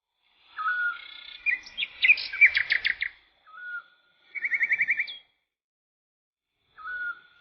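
A songbird singing several short phrases of clear whistled notes and fast trills, separated by brief pauses.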